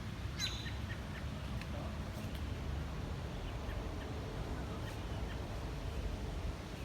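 Small birds chirping: a quick cluster of high calls about half a second in, then a few fainter scattered chirps, over a steady low background rumble.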